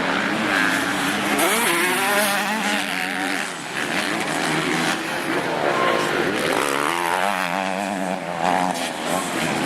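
Motocross bike engines racing, several at once, their pitch rising and falling over and over as riders work the throttle and shift.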